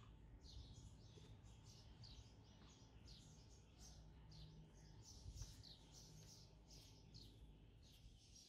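Faint, rapid chirping of small birds, short high calls repeating several times a second, with a soft low thump about five seconds in.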